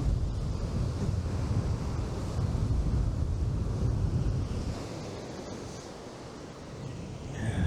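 Strong wind buffeting the microphone over surf breaking on the beach, easing for a couple of seconds near the end before gusting up again.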